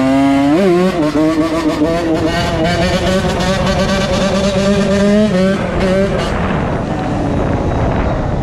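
A 2001 Honda CR80's two-stroke single-cylinder engine running under way at a steady high note, with a quick blip near the start. About five and a half seconds in, the throttle closes and the note drops away.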